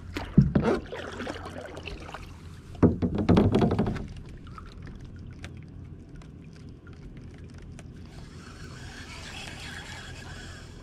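Water splashing and sloshing around a kayak, in two loud bursts about three seconds apart, then a quieter steady background.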